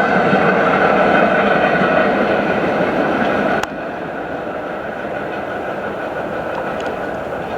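A train running along the track with a steady rumble of wheels on rails. It drops abruptly in loudness about three and a half seconds in and carries on more quietly.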